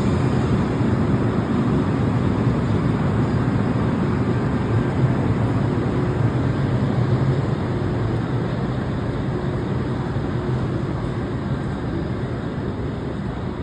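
Electric train running out of the station, a steady low rumble that slowly fades as it pulls away.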